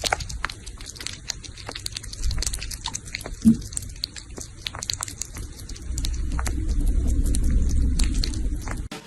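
Crunchy chewing or biting: many sharp clicks and crackles over a low rumble that grows louder in the second half, with one short squeak about three and a half seconds in.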